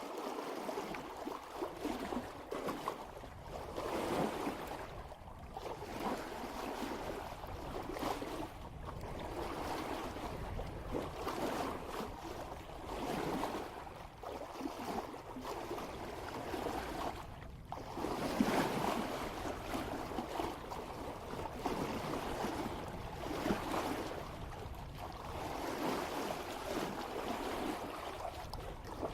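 Water rushing and splashing along a sailboat's bow as the hull moves at about 3 knots, a steady wash that swells and eases every second or two.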